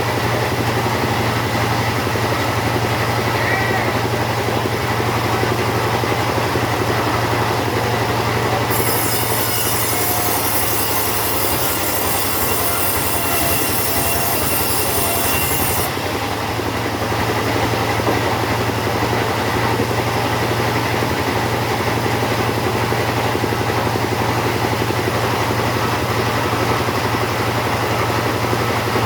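Two-stroke chainsaw running steadily at high throttle while sawing teak. A high hiss joins in about nine seconds in and cuts off about seven seconds later.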